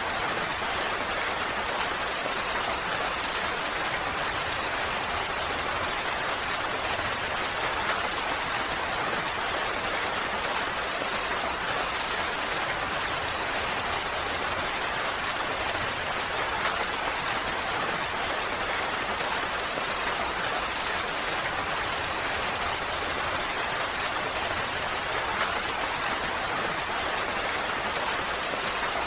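Steady, even rain falling, with a few faint single drop ticks.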